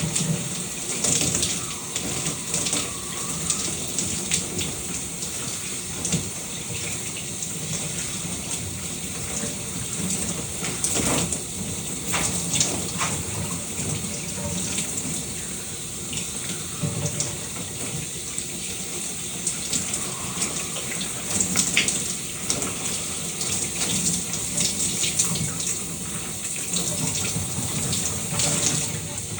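Shower running: a steady hiss of spray with irregular splashes and spatters as the water is broken up.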